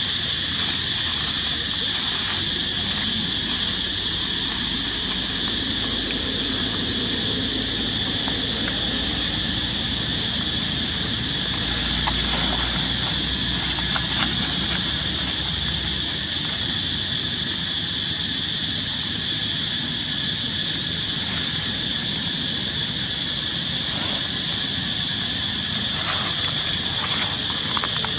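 Steady, high-pitched outdoor drone that holds constant throughout, with a few faint clicks and a brief low rumble midway.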